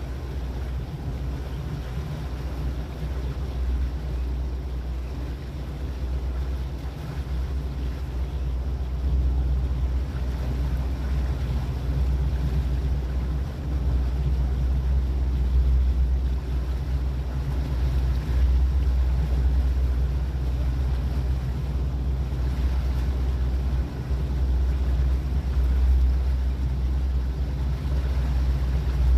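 A boat's engine running steadily under way, a low drone with a deep rumble beneath it that grows a little louder about a third of the way in.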